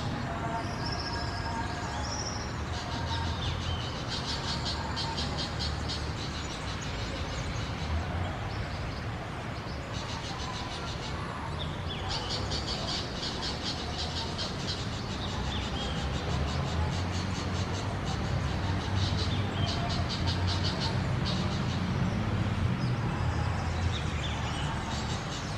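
Birds calling in bouts of rapid, high trills, each bout lasting a few seconds, over a low steady rumble.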